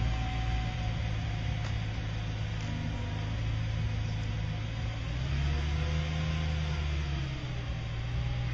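BMW car engine running at low speed, a steady low rumble with a hiss over it, growing stronger about five seconds in as the car moves off.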